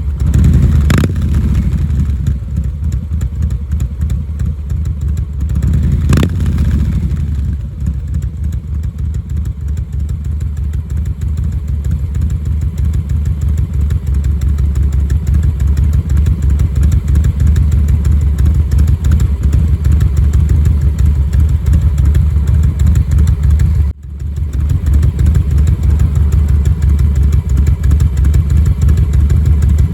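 Harley-Davidson Milwaukee-Eight 117 (1923cc) V-twin idling at about 730 rpm through Cobra RPT 3-inch slip-on mufflers, with a loping, near three-beat rhythm from the Tman-001 cam and low idle setting. There are two short louder bursts, about a second in and about six seconds in.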